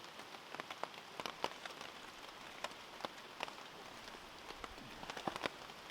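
Rain falling: an even hiss with scattered sharp taps of single drops striking a nearby surface, a few of them close together about five seconds in.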